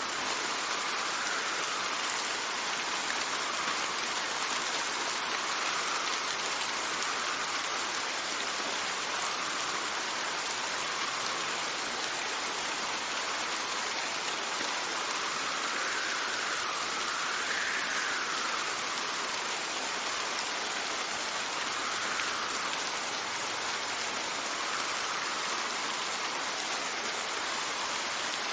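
Steady heavy rain with gusting wind: an even hiss of rainfall, with a soft whoosh that swells and fades every few seconds.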